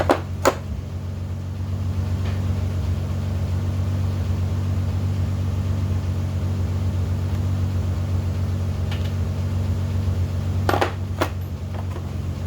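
Steady low machine hum with sharp metal clinks and taps from tools on the engine's connecting rod caps: two at the start about half a second apart, a faint one later, and two more about half a second apart near the end.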